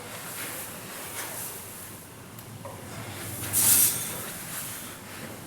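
Grain rustling and hissing as the Vikhr-2000U aeration fan's screw tube is twisted down into the grain heap, in short hissy surges about once a second with one louder rush a little past halfway.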